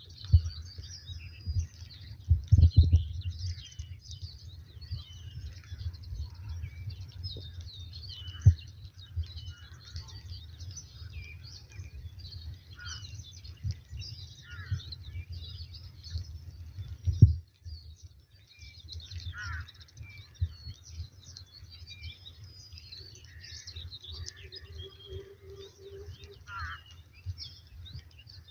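Many small birds chirping and twittering, with low rumbling and several dull thumps on the microphone, the loudest about two-thirds of the way through.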